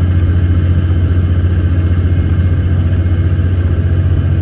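Off-highway logging truck's diesel engine running steadily under way, a loud, even low drone with a fast pulse, heard from inside the cab.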